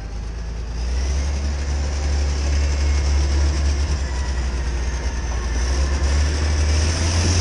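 Heavy earthmoving machine's diesel engine running under load with a steady low drone that grows louder about a second in. A high hiss builds over the last couple of seconds.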